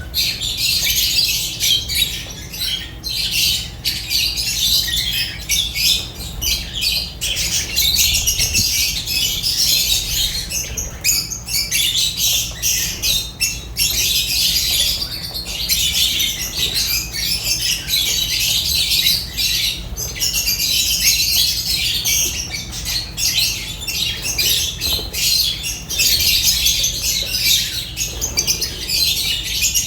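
A flock of lovebirds chattering and squawking without a break, many shrill calls overlapping, over a low steady hum.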